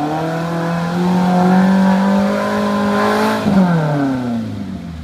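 Off-road 4x4's engine revved hard and held at high revs as the vehicle pushes through deep mud ruts, then the revs drop quickly about three and a half seconds in.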